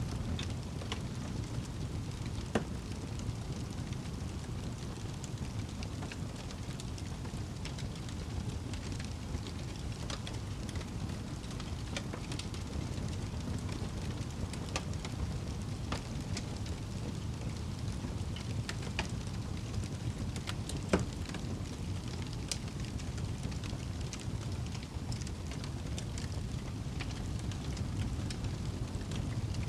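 A fireplace's wood fire crackling, with a steady low rumble under scattered sharp pops and snaps, one louder pop about two-thirds of the way through.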